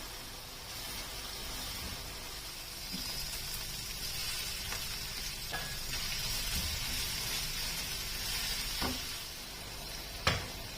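Food frying in a pan, a steady sizzle that grows louder a few seconds in, with a few sharp clicks; the loudest click comes near the end.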